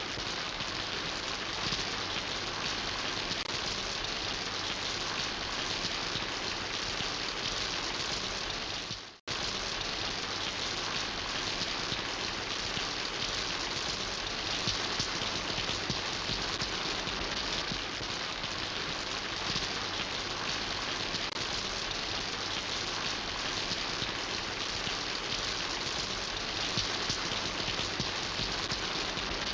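Steady rain falling and pattering on surfaces. About nine seconds in it briefly fades and drops to silence for an instant, then comes straight back.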